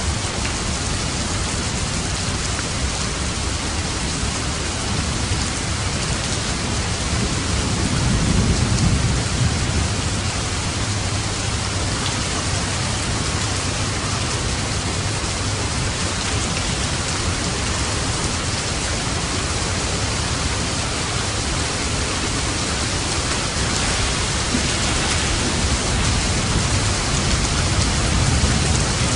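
Steady heavy rain falling on a roof, with low rolls of thunder swelling about a third of the way in and again near the end.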